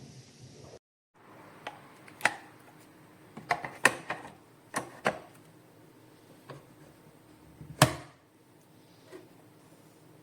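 A series of short, sharp clicks and knocks at irregular intervals, about a dozen, the loudest near the end: parts being handled and set in place.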